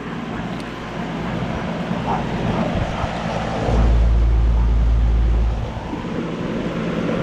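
2012 Bryant Legacy Line 2.5-ton central air conditioner outdoor unit running, with its condenser fan rushing and a steady compressor hum. A low rumble of air buffeting the microphone comes in about halfway through, drops out a couple of seconds later and returns near the end.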